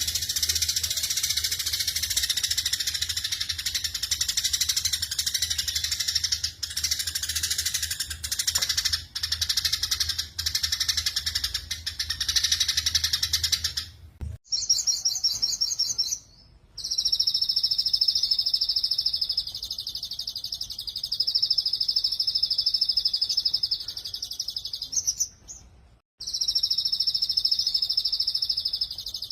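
Recorded small songbirds singing rapid, high, buzzing trills (the 'tembakan' or 'shooting' song used as masteran), spliced from several recordings. The first half is dense, busy song over a low hum; after a break at about the middle it turns into long unbroken fast trills, with short silent gaps between clips.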